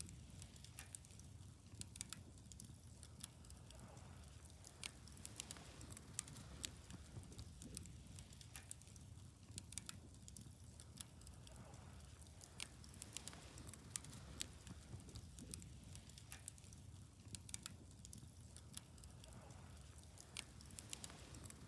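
Wood fire crackling faintly, with many small sharp pops at irregular moments over a low, steady rumble.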